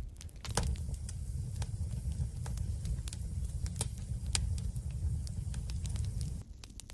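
Wood fire crackling, with scattered sharp pops over a low steady rumble; the rumble drops away about six and a half seconds in.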